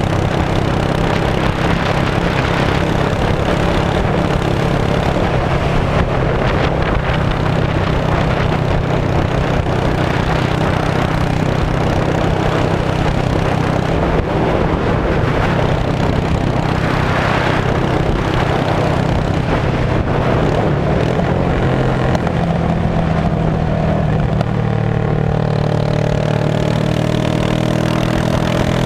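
Straight-piped 2002 Yamaha V-Star 650 V-twin running steadily with a loud exhaust note, its pitch climbing near the end.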